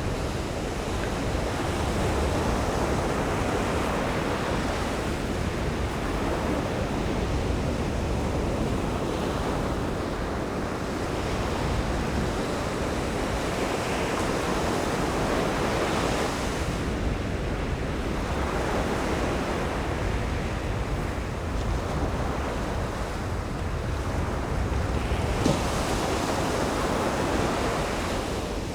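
Ocean waves breaking and washing up a beach, the surf swelling and easing every several seconds over a steady low rumble, with some wind buffeting the microphone.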